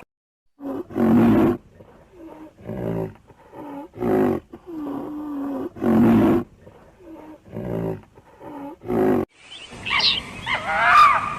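An animal calling over and over: about six loud, low-pitched calls, each under a second long, come about every one and a half seconds, with quieter calls in between. Near the end, high, gliding whining cries take over.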